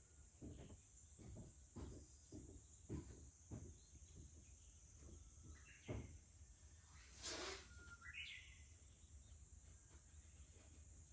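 Wood fire crackling with short sharp snaps, most of them in the first half, over a steady high drone of cicadas. About seven seconds in there is a brief hiss, then a bird gives a short rising call.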